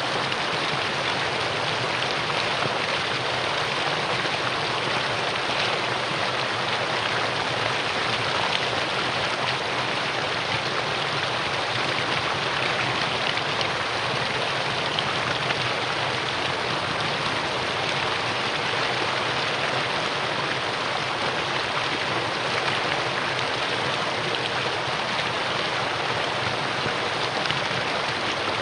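Mountain valley stream water rushing and splashing over rocks, a steady, even noise without change.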